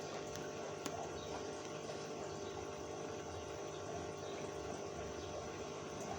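Aquarium pump running steadily with moving water, with a steady hum and a single brief click a little under a second in.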